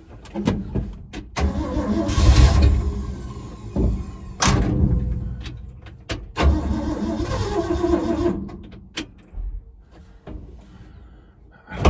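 A freshly rebuilt Ford 360 FE V8 being cranked by its starter in several bursts with short pauses and clicks between them, not catching and running. The ignition setting is still being hunted for; the owner thinks the timing is off.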